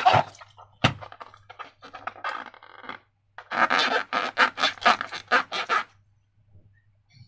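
Slime being squished and worked by hand, making sticky, wet crackling and clicking in bursts. A sharp click comes just under a second in, and the densest run of crackles lasts from about three and a half to six seconds in before it stops.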